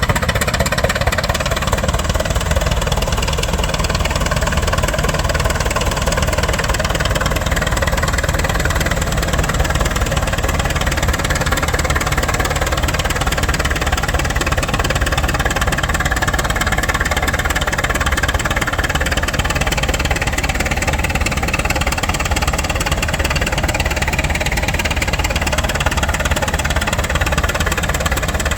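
An engine running steadily throughout, with no change in speed.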